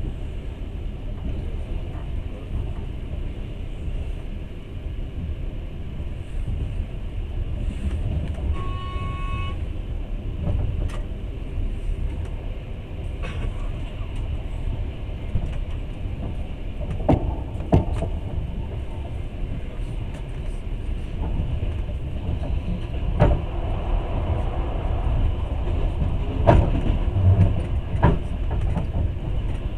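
Passenger train running on the rails: a steady low rumble of wheels and carriage. A short horn sounds about nine seconds in, and sharp clacks come several times in the second half.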